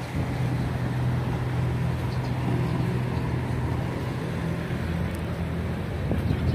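A motor vehicle's engine running with a steady hum, amid street traffic noise.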